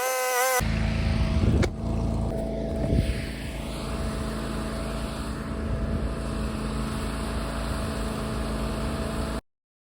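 Toro Dingo compact utility loader's engine running steadily, starting about half a second in. Two loud knocks come over it, about one and a half and three seconds in. The engine cuts off abruptly near the end.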